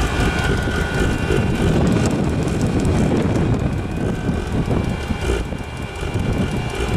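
Chinese diesel air heater running, a steady whine from its blower over a rough combustion rumble, with wind buffeting the microphone.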